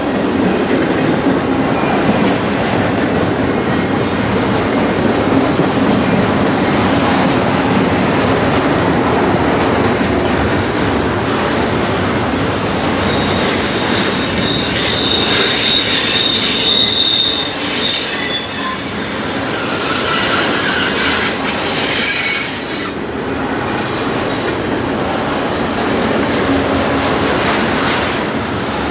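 Railway cars rolling past with steady wheel-on-rail noise. High-pitched wheel squeal comes in several times: a long squeal about halfway through, a short lower one a few seconds later, and another high one near the end.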